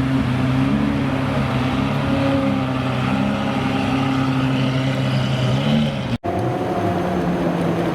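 Supercar engine running steadily at low revs with an even, unchanging note. It cuts off abruptly about six seconds in and is followed by a slightly different steady engine note.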